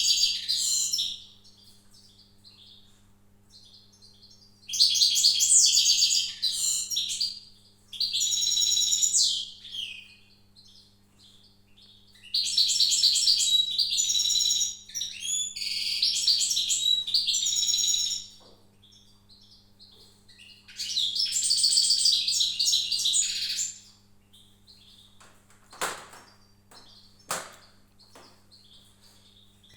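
Small songbird singing in bursts of high, rapid trilling phrases lasting a few seconds each, with short pauses between them. Two sharp clicks come near the end.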